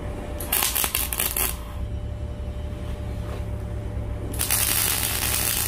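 Welding crackle in two short bursts, a brief one about half a second in and a longer one near the end, as swivel caster wheels are fixed to a steel stove base.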